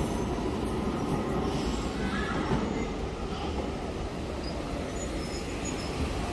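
Electric passenger train running along the station tracks: a steady low rumble with faint wheel squeal.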